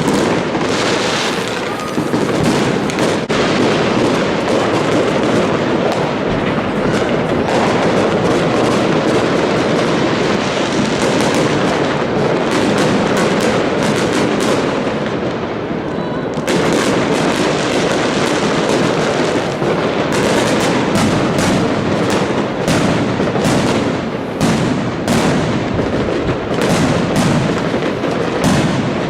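Fireworks display: continuous bangs and crackle of aerial shells bursting, with rapid sharp cracks coming thick and fast in the last third.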